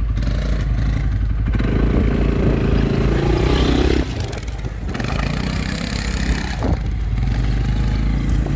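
Quad bike engine running, revving up over a couple of seconds and then dropping back suddenly about four seconds in.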